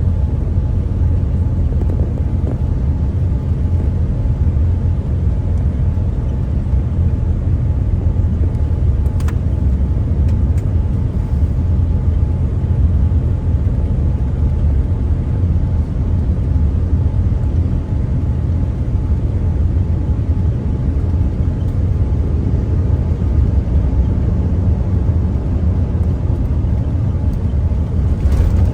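Cabin noise of a Boeing 787-9 on approach: a steady low rumble of engines and airflow, with a faint steady tone above it. It grows slightly louder near the end.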